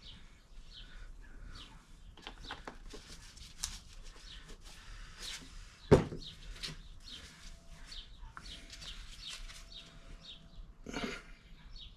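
Light clicks and rustles of things being handled, with one sharp knock about six seconds in.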